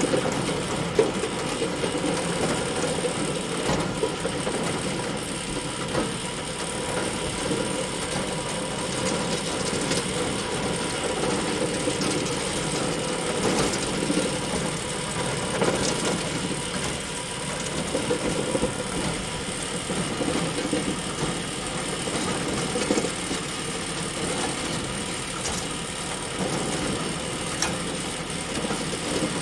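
Bale elevator running steadily, a continuous mechanical drone with a few sharp clicks now and then.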